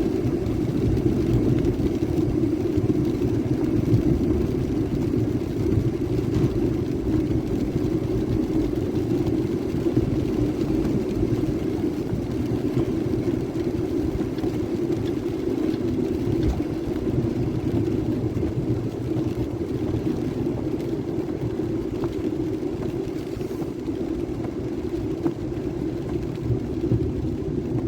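Vehicle driving along a road: steady engine and road noise with a low rumble.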